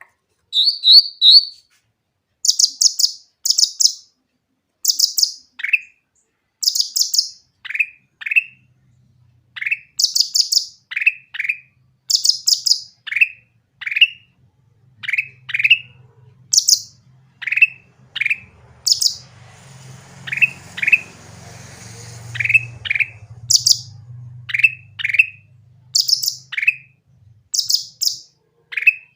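Cucak ranting singing: short clusters of quick, high chirping notes alternating again and again with short falling whistles. A faint low hum and hiss sit under the song in the middle stretch.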